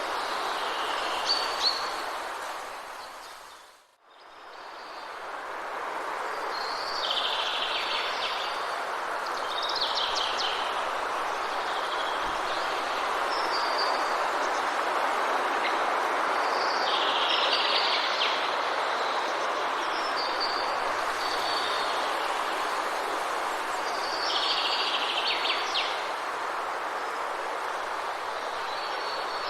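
Forest ambience: a steady rushing noise bed with songbirds calling in short high phrases every few seconds. About four seconds in, the whole sound fades almost to silence and swells back up.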